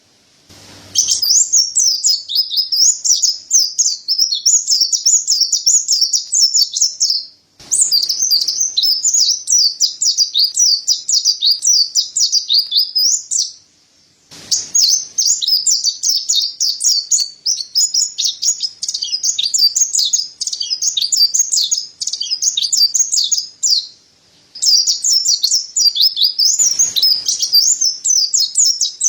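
Mountain white-eye (pleci dada putih) singing: long runs of rapid, high twittering, broken by brief pauses three times.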